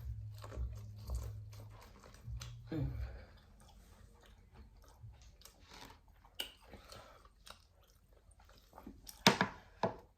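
A person chewing close to the microphone, wet lip smacks and mouth clicks, while eating sticky, sauce-covered barbecue spare ribs. The loudest smacks come near the end.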